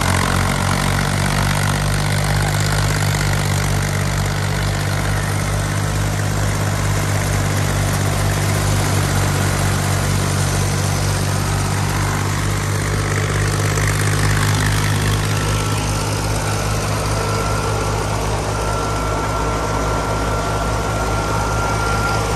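Fiat 480 tractor's three-cylinder diesel engine running steadily while driving a wheat thresher, its even low pulse under the thresher's continuous rushing noise. A faint, steady high whine joins in about two-thirds of the way through.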